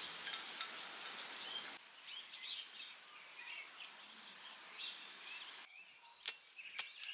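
Faint songbirds chirping in the open air, with a few sharp clicks near the end.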